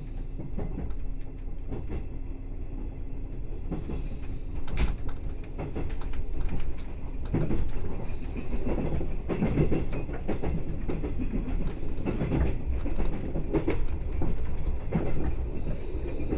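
JR 381 series electric train pulling away and picking up speed, heard from inside the rear cab: its running noise grows louder, with the wheels clicking sharply over the track again and again.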